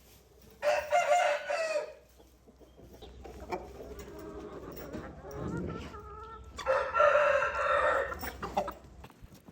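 A rooster crows twice, the second crow about six seconds after the first and a little longer.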